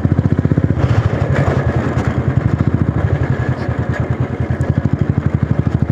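Motorcycle engine running steadily while riding, a fast, even throb of firing pulses.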